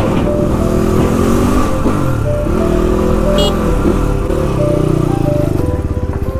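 A motorcycle engine running on the road, rising and falling in pitch, with background music playing over it.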